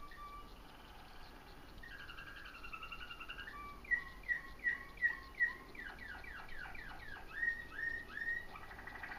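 A bird singing: a quick series of short chirps that each slide downward, about three a second, loudest around the middle.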